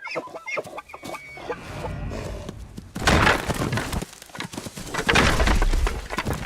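Elk giving high, gliding squealing calls in the first second or so. Then, from about three seconds in, loud, rapid clattering and crashing in two spells: two bull elk clashing and rattling antlers as they fight.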